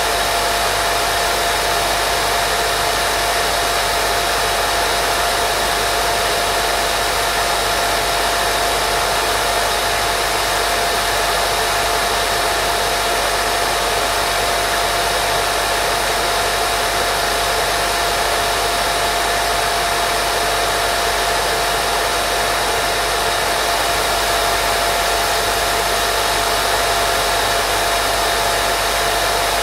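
Continuous white noise for baby sleep: a steady, even hiss with a thin steady tone running through it, unchanging throughout.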